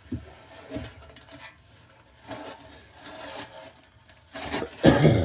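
Rubbing and scraping with scattered knocks as parts and tools are handled under a truck, with a louder knock and scrape near the end.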